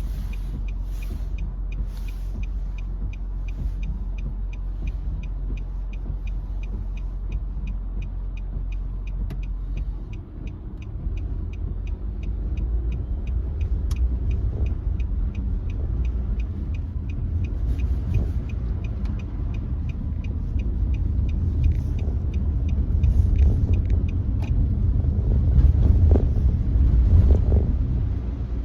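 Nissan Note e-POWER driving on a wet road, a steady low rumble of running and tyre noise that steps up about ten seconds in and keeps growing louder toward the end. Through the first half a rapid, regular ticking runs over it and then stops.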